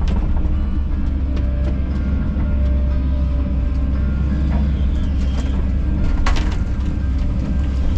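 Kobelco SK210 excavator's diesel engine running steadily under load with a low drone, with scattered knocks and clanks from the machine working and one sharp, louder clatter about six seconds in.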